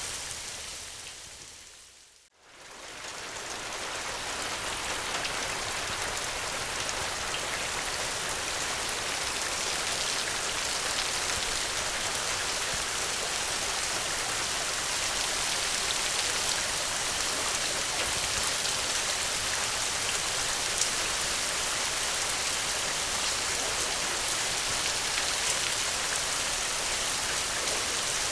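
Steady, dense rain. About two seconds in it fades almost to silence and swells back within a second, then runs on evenly.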